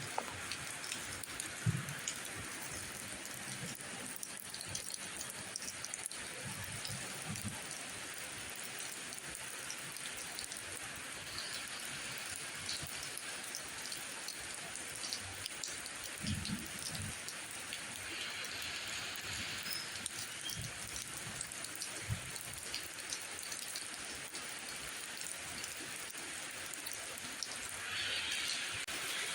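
Steady rain falling, with scattered heavier drops and soft low knocks. The rain grows a little louder near the end.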